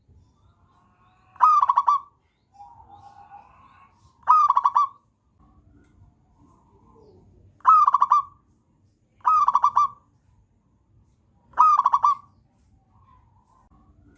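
Zebra dove (perkutut) singing: five loud, short, stuttering coos about half a second each, with softer cooing between them.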